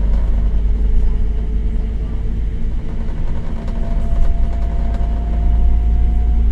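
Scania K270UB bus's five-cylinder diesel engine running steadily under way with a deep rumble. A faint whine rises slowly in pitch from about halfway through.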